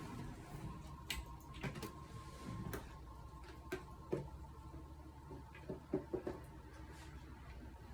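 Scattered light clicks and small knocks of objects being handled, over a low steady hum.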